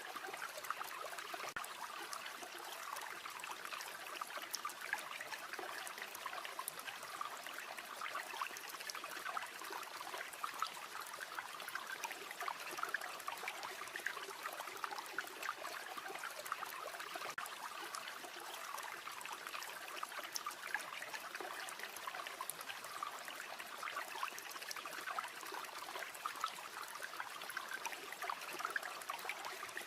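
River water flowing steadily with a trickling, babbling sound, with scattered faint clicks.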